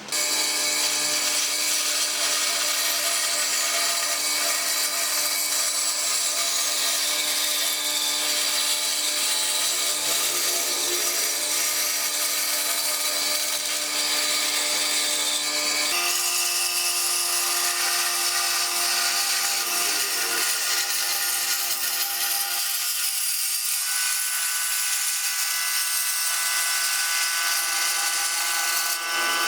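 Woodworking power tool running steadily with a whining tone. Its sound changes abruptly twice, once about halfway through and again later, as the shots change.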